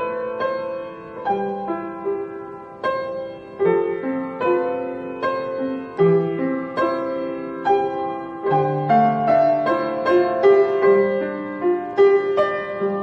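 Solo piano playing a self-composed piece: a melody over chords, with notes struck about once or twice a second and left to ring.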